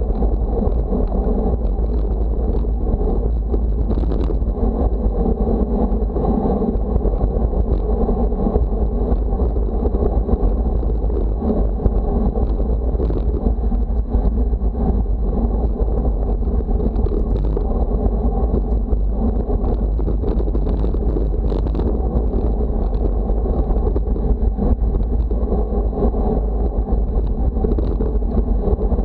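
Wind buffeting the microphone: a steady, loud low rumble and rush.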